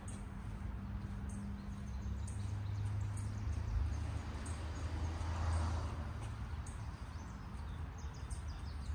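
Outdoor ambience: small birds chirping over a steady low hum.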